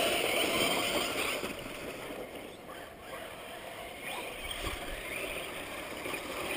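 Radio-controlled race cars running on the track just after the start, a noisy rush that fades over the first few seconds as they pull away and then builds again, with a few faint rising and falling whines.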